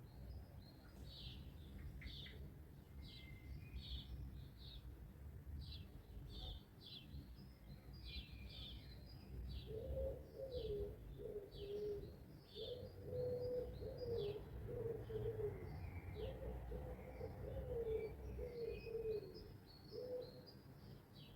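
Songbirds at dawn giving many short, high chirps in quick repeated phrases. About halfway in, a lower wavering call joins them and stops shortly before the end, over a low background rumble.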